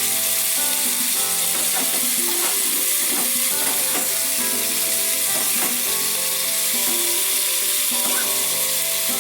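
Chopped cauliflower sizzling in soybean oil in a kadai over a medium gas flame, with a spatula stirring and scraping every second or so. Soft background music plays underneath.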